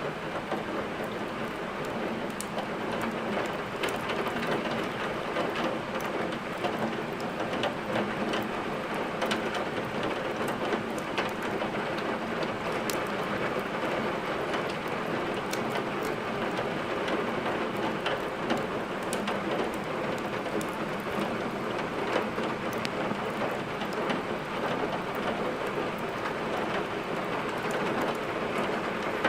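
Steady heavy rain, an even hiss, with many scattered sharp crackles and ticks throughout.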